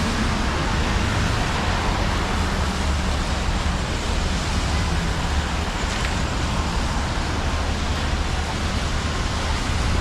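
Steady city traffic noise on rain-wet streets: an even hiss of tyres and rain over a low engine rumble.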